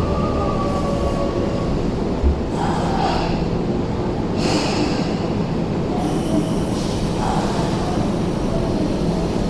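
Electric commuter train at a platform, pulling in to a stop: a faint electric motor whine falls away in the first two seconds. Short bursts of air hiss follow about two and a half, four and a half and seven seconds in, over a steady low rumble.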